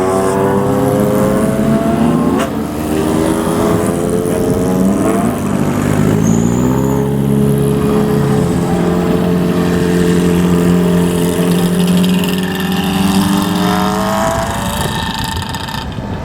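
Motorcycle engines revving through their exhausts as the bikes ride off, the pitch rising and dropping with the throttle and gear changes. The engines hold a steady note for a few seconds, then fade away near the end.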